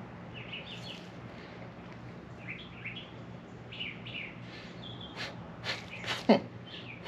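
Small birds chirping in short, high calls over a faint steady hum. Near the end come a few sharp sniffs and a quick grunt falling in pitch, a man reacting to a bug flying up his nose.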